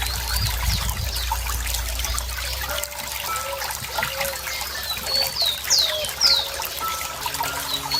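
Running water trickling and plopping, with a small bird calling in the second half: a few quick, high notes that sweep downward.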